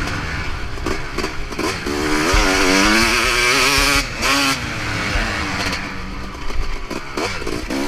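Motocross bike engine revving up and down as it is ridden, the pitch rising and falling with the throttle and cutting off briefly about four seconds in.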